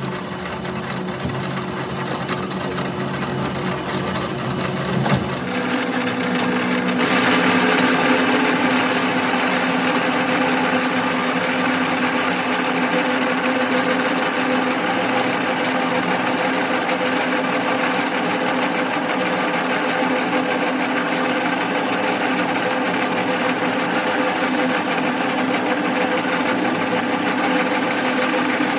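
A machine motor running steadily with a constant hum. About five seconds in it changes pitch, and it gets louder around seven seconds before holding steady.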